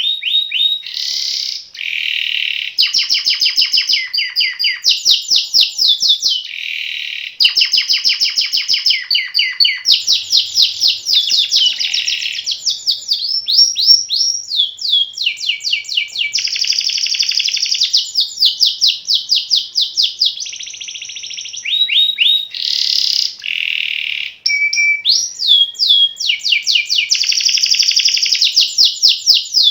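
Domestic canary singing a long, nearly unbroken high song of fast rolling trills and rapidly repeated notes, with short breaks only every several seconds.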